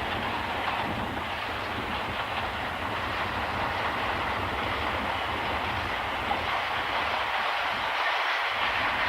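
Mixed train hauled by two JNR DE10 diesel locomotives running along the line, with a steady rail clatter that grows slightly louder near the end. Strong wind buffets the microphone.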